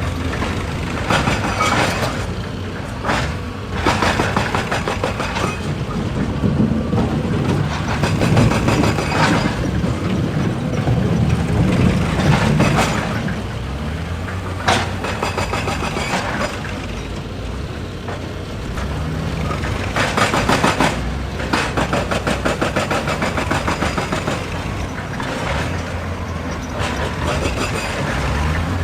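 Excavator's diesel engine running under load, with repeated bursts of rapid metallic clattering and grinding as the machine works.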